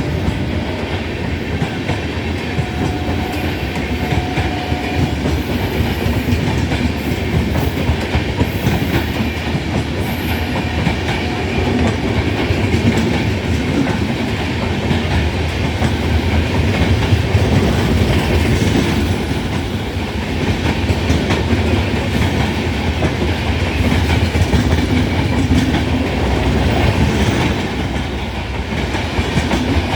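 Coaches of an express train rolling past on the track as it departs, wheels clattering over the rail joints; the rumble swells and eases, loudest in the middle.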